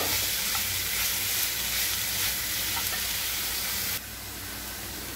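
Grated taro sizzling in hot oil in a non-stick pan as a spatula stirs it, with faint scrapes of the spatula; the sizzle drops to a lower level about four seconds in.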